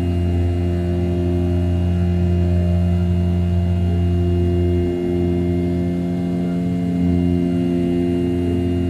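A CNC mill's 500 W brushless spindle turning at 6000 rpm while its end mill rough-cuts A7075 aluminium: a steady hum with several even tones, dipping briefly about five seconds in.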